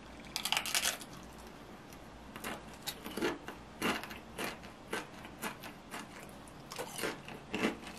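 Crisp Paqui One Chip Challenge tortilla chip being bitten and chewed: a quick run of crunches about half a second in, then single crunches every half second or so as the chewing goes on.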